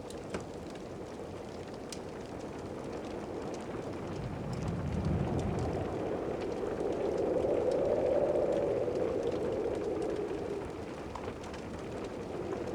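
Steady rain with a long rumble of distant thunder that swells about halfway through and fades away, over faint crackling.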